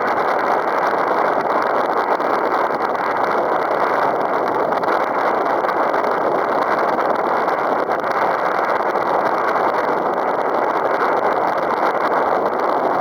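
Strong wind of around 15 m/s buffeting the microphone, a steady rushing noise with no breaks.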